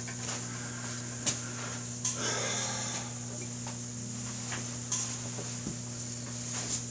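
Light knocks and a short rubbing, scraping sound about two seconds in, as a motorcycle wheel and tire are handled and wiped, over a steady low hum.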